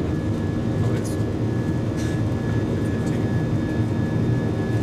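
Airbus A319 cabin noise in the climb: a steady drone of engines and airflow heard inside the cabin, with a thin, steady high whine over it.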